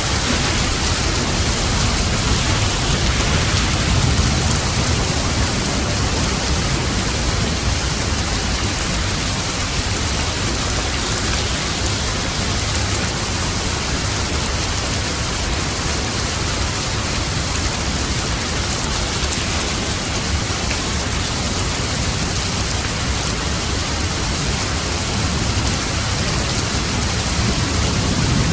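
Steady rain falling, a dense even hiss, with low rumbles of thunder swelling about three seconds in and again near the end.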